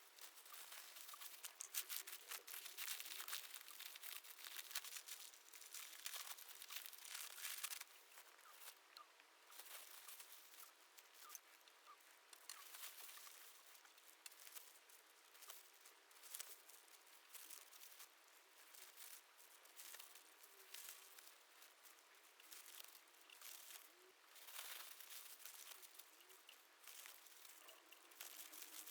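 Faint crinkling, rustling and light tapping of materials being handled, busiest in the first eight seconds and sparser after.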